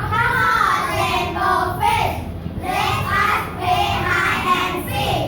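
Children singing, high young voices carrying a short melody with held notes.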